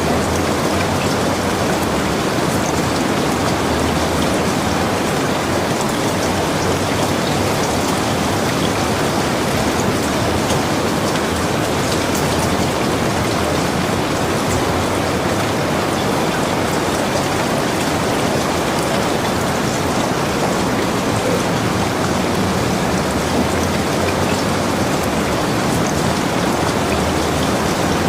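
Steady rain falling, a dense even patter of drops hitting surfaces, with no change in strength.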